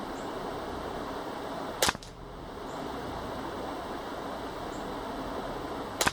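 Two suppressed .22 LR rifle shots about four seconds apart, over a steady background hiss: CCI Standard Velocity rounds fired from a Ruger 10/22 LVT fitted with a suppressor.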